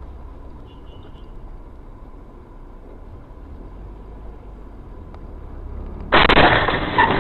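Steady low road and engine rumble of a car heard from inside, then about six seconds in a sudden loud, harsh noise that lasts over a second.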